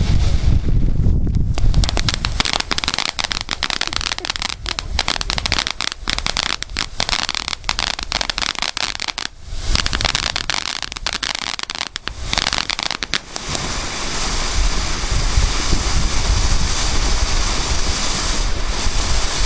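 Consumer fireworks display going off: a dense run of rapid crackling pops starting about two seconds in, with a brief break in the middle, ending a few seconds past the halfway point. Steady wind noise on the microphone fills the rest.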